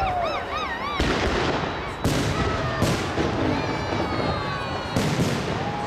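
Aerial firework shells of a fireworks salute going off: four sharp bangs in about five seconds. Warbling, siren-like electronic tones sound over them at the start and again near the end.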